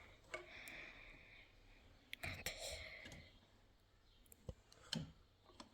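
Faint scattered clicks and a few light knocks with short scraping in between: hand work on a wooden door's lock.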